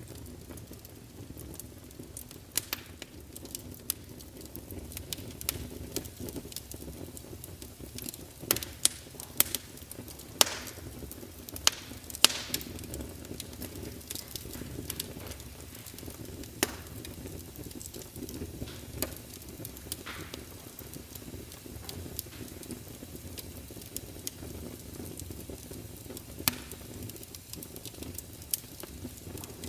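Wood fire crackling: a steady low rush of burning logs with irregular sharp pops and snaps, a few louder ones about ten to twelve seconds in.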